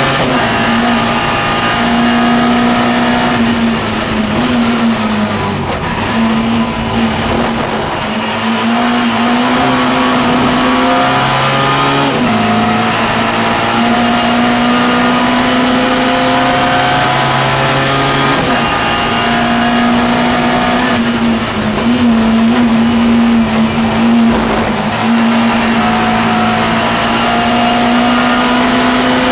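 Classic Mini race car's A-series four-cylinder engine heard from inside the car, held at high revs at racing speed. The note drops and climbs back several times as the car lifts and changes gear.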